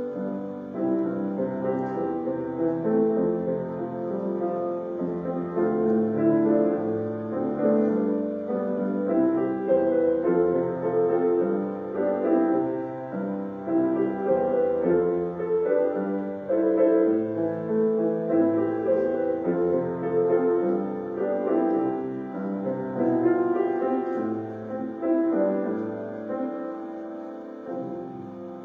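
Slow offertory music played on piano, in sustained chords, easing down near the end.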